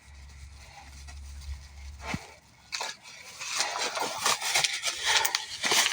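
Scraping, knocking and rustling as packaging and loose parts such as a metal rack are handled and pulled out of a motorcycle shipping crate, getting busier from about three seconds in. A low hum runs under the first two seconds.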